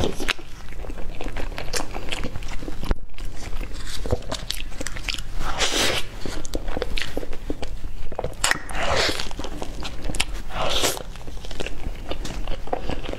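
Close-miked mouth sounds of biting and chewing a soft cream-filled cupcake: many small wet clicks and smacks, with a few louder noisy bites or mouthfuls about halfway through and again later.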